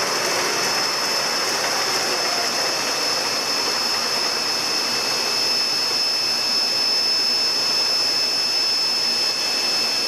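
Diesel generator machinery in a powerhouse running steadily, with a steady high whine over the engine noise and no sign of slowing.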